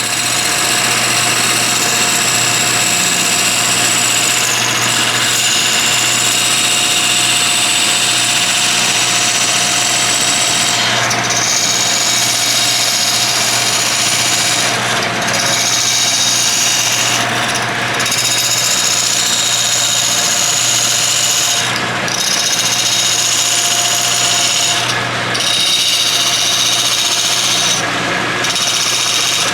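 Wood lathe spinning a hard burl-wood bowl while a turning gouge cuts the inside, a loud steady cutting whine with short breaks every few seconds from about ten seconds in.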